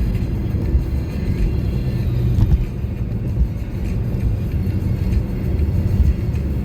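A car driving on a highway: a steady low rumble of road and engine noise.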